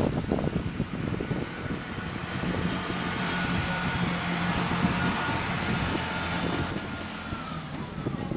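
Chiltern Railways diesel multiple unit moving along the line and drawing away: a steady engine drone over rumbling wheel and rail noise, with a faint whine that falls in pitch near the end.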